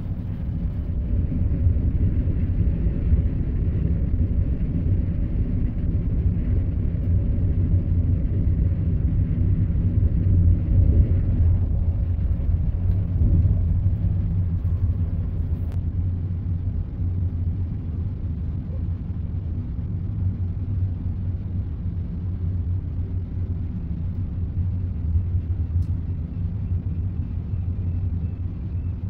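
Passenger train running noise heard from inside the carriage: a steady low rumble that eases off somewhat in the second half as the train comes into a station.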